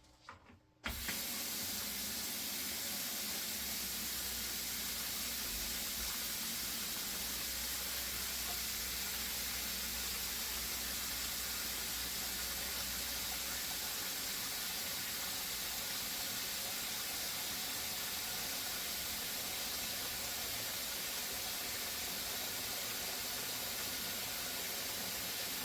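Warm water running steadily into a tub, filling it for an oxalic acid bath; the flow starts suddenly about a second in.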